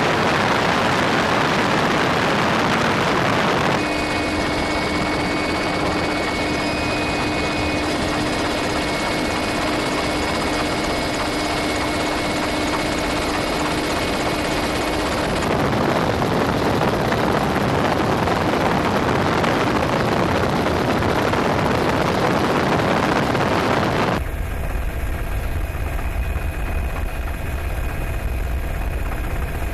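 Helicopter in flight: a loud, steady noise from the engine and rotors, with a thin steady whine in places. The character changes abruptly three times where clips are cut together. The last part is dominated by a heavier low rumble.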